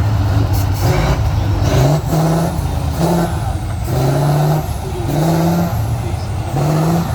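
Heavy off-road trial truck's engine revving in repeated short bursts, about one a second, the pitch climbing with each, over a steady low engine drone. Faint falling whistles sound between the bursts.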